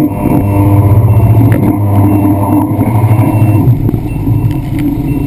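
Jet ski engine running under way, loud and continuous, its note wavering and easing off a little about four seconds in.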